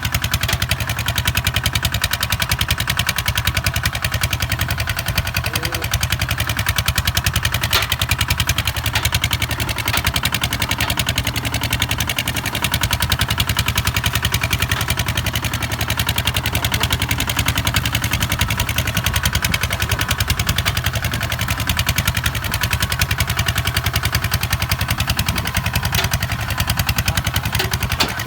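Kubota ZT 155 DI single-cylinder diesel engine running steadily with a fast, even firing beat as the steel-wheeled tractor plows sandy soil.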